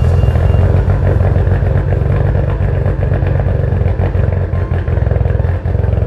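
Mitsubishi Lancer Evolution X's turbocharged 2.0-litre four-cylinder engine idling steadily.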